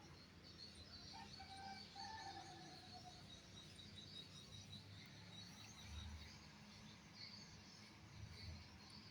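Quiet background with faint small birds chirping, twittering on and off, and a faint drawn-out call about a second in.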